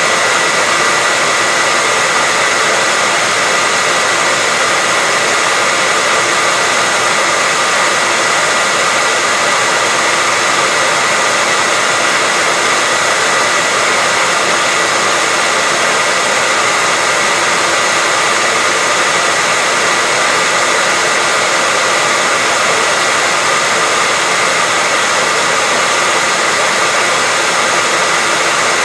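Hair dryer running continuously at an even level: a steady rushing blow with a constant high whine from the motor and fan.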